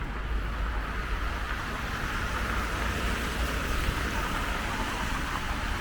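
Wet-road traffic: vehicle tyres hissing on rain-soaked tarmac, swelling about two to four seconds in as a vehicle passes and then easing, over a steady low rumble.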